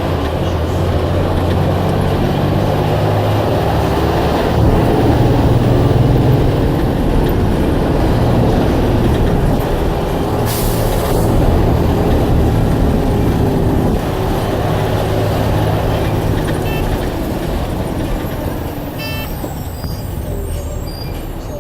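Blue Bird All American bus's diesel engine running, its note shifting about 14 s in and dying away over the last few seconds, with a short sharp air hiss about halfway through.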